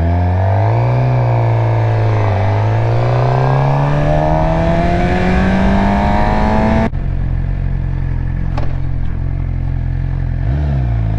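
2019 Suzuki GSX-R600's inline-four engine accelerating under way. Its pitch climbs steadily for about seven seconds, with a brief dip about two seconds in, then falls off suddenly as the throttle closes, settling to a steady lower note. There is a short rev blip near the end.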